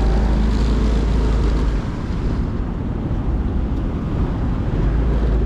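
Motorcycle riding on the road: engine running under a heavy low wind rumble on the microphone, which eases about two seconds in and builds again near the end.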